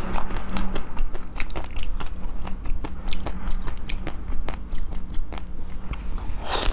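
Close-miked biting and chewing of a soft green dessert ball with an orange filling: a quick run of small mouth clicks and crunches, with a bigger bite near the end. A steady low hum runs underneath.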